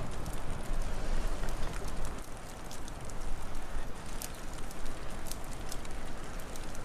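Wood fire crackling, with scattered sharp pops and ticks over a steady low rushing background of wind, which eases a little about two seconds in.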